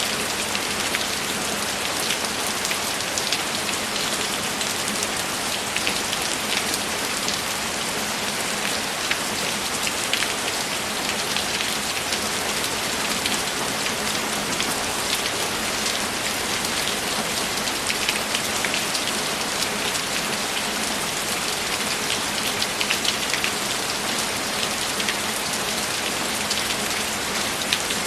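Steady rain with many fine drop ticks.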